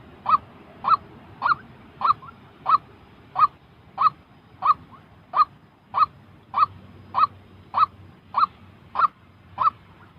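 White-breasted waterhen calling: a steady, monotonous run of short honking calls, about one every 0.6 seconds.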